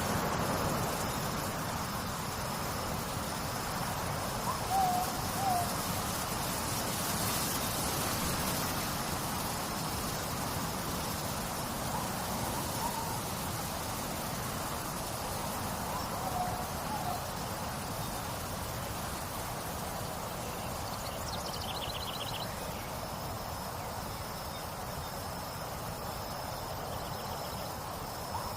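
Night nature ambience: steady trickling water with crickets chirping in a faint high pulsing drone. Short two-note hoots come every few seconds, and a brief high trill sounds near the end.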